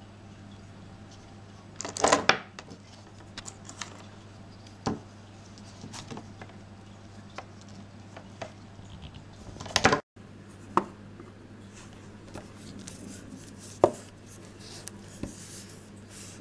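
Scattered clicks and knocks of small hard objects being handled on a hard surface, the loudest a short cluster about two seconds in and another near ten seconds, over a steady low hum.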